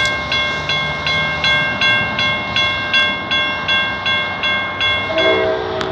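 Railroad grade-crossing bell ringing in quick, even strokes, about three a second, then stopping about five seconds in. As it stops, a low chord of steady tones, a train horn, starts sounding.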